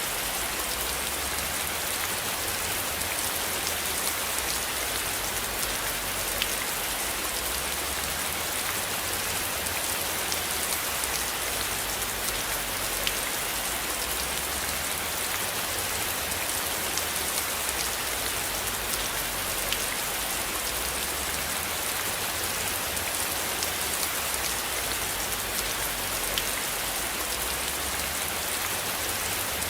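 Steady rain falling on a surface, an even hiss with scattered single drop ticks. Underneath it runs a low rumble that slowly swells and fades.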